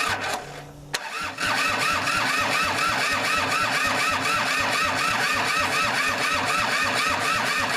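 Kubota L2500 diesel tractor engine cranking over on the starter with an even rhythmic beat, beginning about a second in after a few short sounds. Without working glow plugs it fires only roughly on part of its cylinders and does not catch and run.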